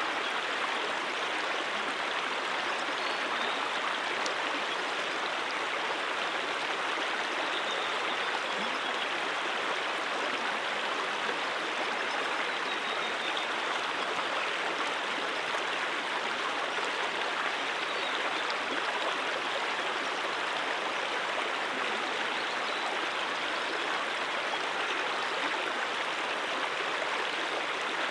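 Mountain stream water rushing, a steady, even flow with no change in level.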